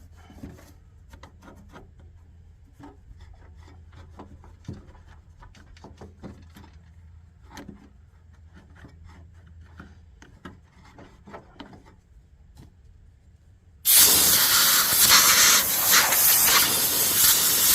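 Quiet clicks and handling of small heater parts, then about 14 seconds in a loud compressed-air hiss starts suddenly and runs steadily for about four seconds as a part of the forced-air heater is blown out.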